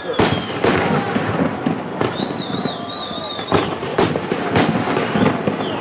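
Fireworks display: several sharp bangs of exploding shells over continuous crackling, with a high wavering whistle in the middle.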